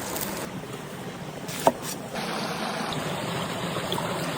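Steady rushing of river water, with one brief sharp click about a second and a half in.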